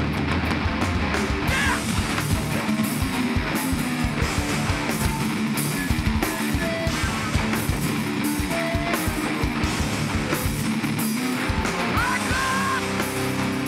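Hardcore band playing live and loud: distorted electric guitars over bass and pounding drums.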